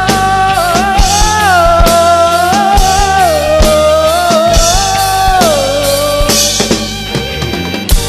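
Dangdut band music between sung lines: a lead melody holds long notes and slides between them over a drum kit and bass.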